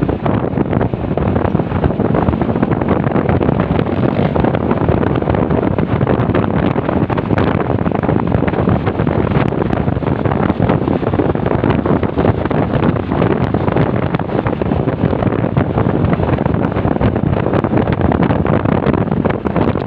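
Loud, steady wind rushing over the microphone of a moving motorcycle, with road and engine noise buried underneath.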